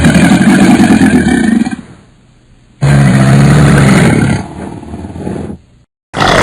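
Crocodile growling: two long, low growls, each lasting a second and a half or more, with a third starting near the end.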